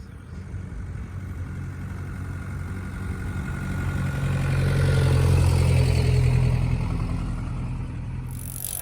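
Car engine running with a steady low rumble that swells and rises slightly in pitch about halfway through, then eases back. Near the end a hiss comes in.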